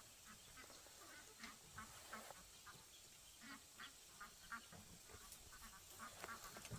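Faint, short, repeated calls of farm birds, about two a second, over low background hiss.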